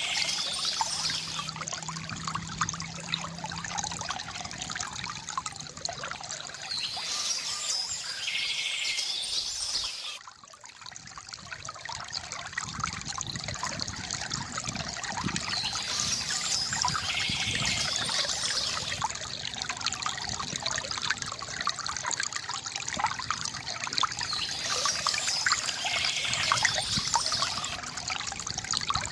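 Water from a bamboo fountain spout trickling and splashing steadily into a basin, dipping briefly about a third of the way through. Birds chirp in short bursts about every nine seconds over it.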